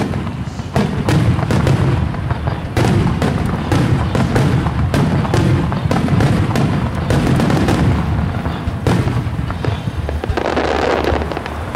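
Starmine fireworks barrage: many shells launching and bursting in quick succession, a dense, unbroken run of sharp booms and bangs over a low rumble.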